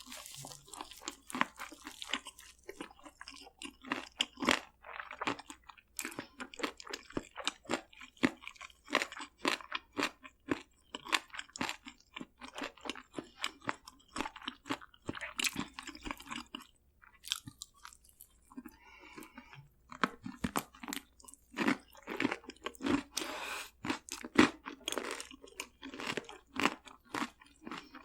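Close-up crunching and chewing of crispy fried food: many irregular crisp crunches of bites into a crunchy coating and the chewing that follows, with a short lull about two thirds of the way through.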